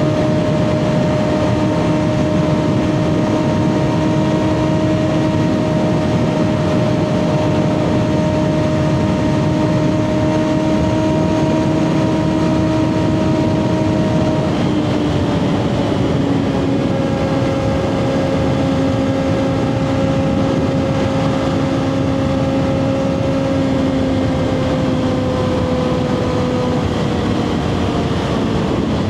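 2024 Kawasaki ZX6R inline-four with a Two Brothers slip-on exhaust, running under way at a steady engine speed. About halfway through the pitch drops a little, then eases gradually lower near the end.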